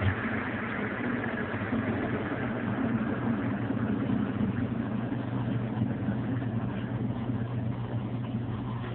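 Smart 5 kg washing machine running: a steady low motor hum under an even rushing noise.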